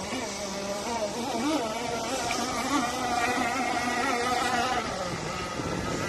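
Radio-controlled power boat's motor running with a whine that wavers up and down in pitch as the boat changes speed, holding steadier in the middle before easing off near the end.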